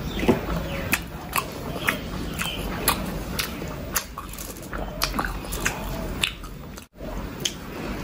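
Close-miked chewing of steamed chicken momos: wet mouth smacks and sharp clicks, a few a second. The sound cuts out for an instant near the end.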